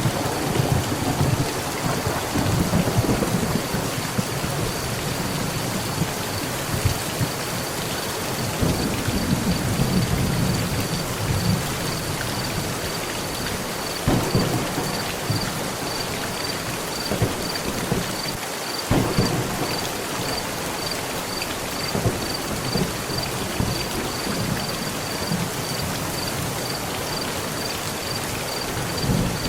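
Heavy rain drumming steadily on a metal roof, with low rolls of thunder rumbling twice and a few sharp single knocks from the rain partway through. A faint, high pulsing tone runs underneath, about two beats a second.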